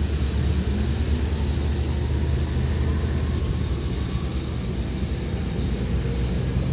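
Truck engine running with a deep, steady rumble, with a thin high whistle that comes and goes in short pieces over it.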